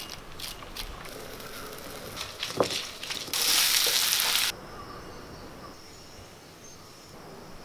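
Papaya pieces sizzling in hot oil in a pan as a wooden spatula stirs them. The sizzle is loud for about a second near the middle and starts and stops suddenly. Before it come a few light clicks and taps of a knife cutting a raw papaya.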